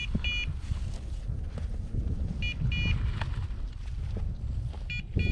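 Hunting dog's beeper collar giving pairs of short, high electronic beeps about every two and a half seconds, three pairs in all. Low wind rumble on the microphone runs underneath.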